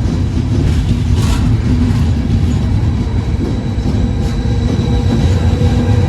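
A train running past at close range: a steady, heavy low rumble with faint steady whining tones above it.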